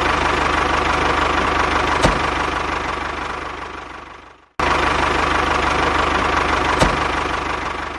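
Diesel tractor engine idling with an even low knock. It fades away about four seconds in, then cuts straight back in and fades again near the end.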